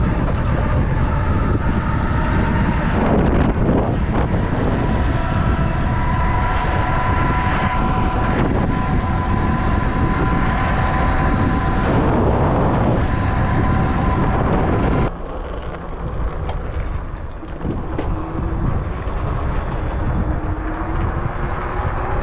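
Wind buffeting the microphone during an e-bike ride, a loud rumbling rush with a faint steady whine over it. About fifteen seconds in the rush drops suddenly to a softer level, and a faint whine rises slowly toward the end.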